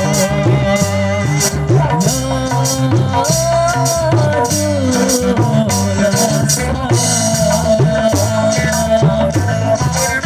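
Kecimol band music: a gliding sung melody over a steady, loud percussion beat.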